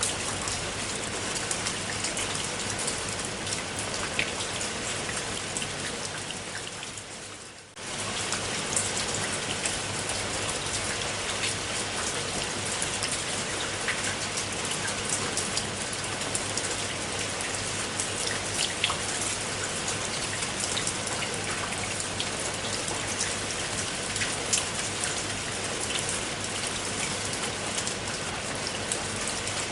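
Steady rain falling on a surface, with individual drops clicking through the hiss. About six seconds in it fades away, then cuts back in abruptly a second or so later, as at the seam of a looped recording.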